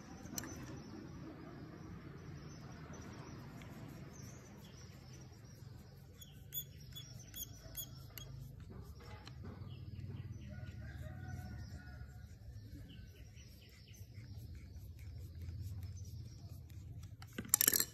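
Birds chirping in short repeated calls about a third of the way in, over a low steady rumble. Faint scrapes and clicks come from a metal rod being worked inside an angle grinder's motor housing, and there is a sharp clatter near the end.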